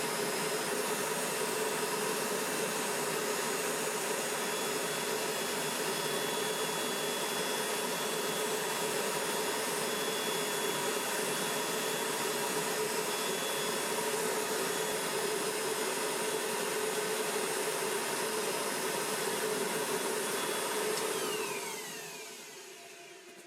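Small electric blower motor running steadily with a whirring hum, then switched off about 21 seconds in, its pitch falling as it spins down.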